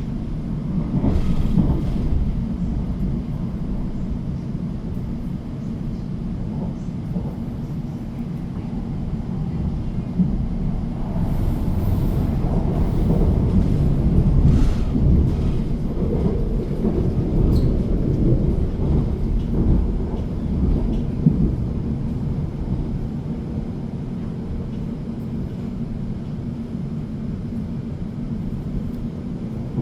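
Train carriage heard from inside while running: a steady low rumble of wheels on track, growing a little louder with some higher rattling and squealing partway through.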